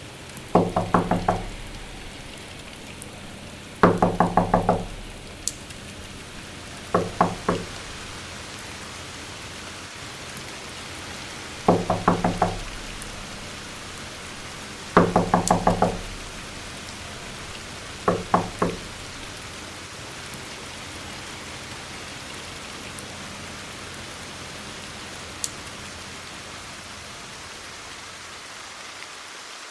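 Six bursts of rapid knocking, each a quick run of about four to six hollow, ringing knocks, a few seconds apart. Under them runs a steady rain-like hiss.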